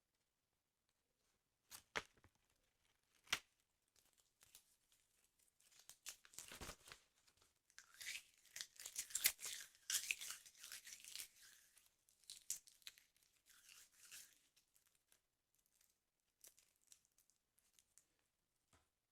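Paper being torn slowly, close up: a long rasping tear with crinkling, loudest in the middle, after two sharp taps near the start.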